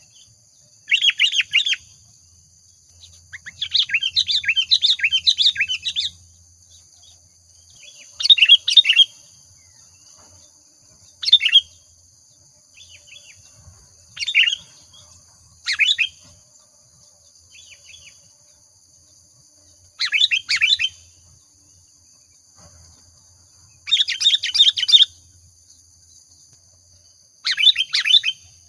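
Sooty-headed bulbul (kutilang) singing in vigorous form: short bursts of rapid, bubbling chirps, about ten phrases a few seconds apart, one of them longer (about three seconds) near the start.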